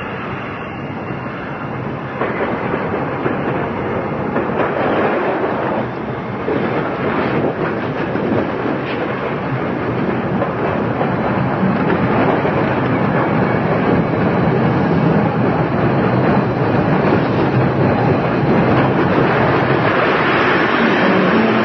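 A train running on the rails, a steady loud rumble that grows gradually louder.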